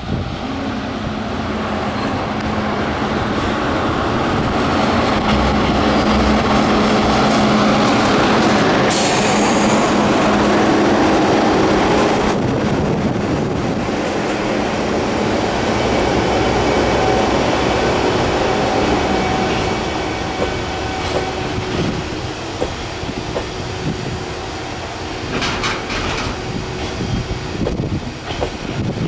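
EF210 electric locomotive pulling a freight train past as it arrives: loud steady running with a low drone for the first dozen seconds, then the freight wagons rolling by more quietly with knocks from the wheels over the rail joints as the train slows. A brief high squeal near the end.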